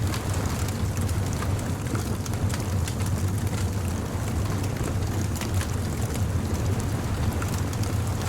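Bonfire crackling, with frequent small sharp pops scattered over a steady low rumble.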